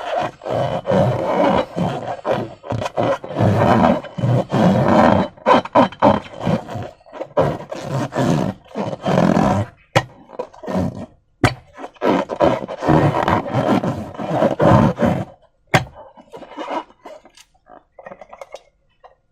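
Slime squished and squeezed by hand close to the microphone, in irregular wet, crackly bursts with short pauses between handfuls.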